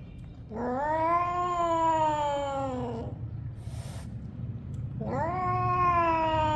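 Domestic cat giving two long, drawn-out meows, each rising in pitch and then slowly falling, the second starting about five seconds in.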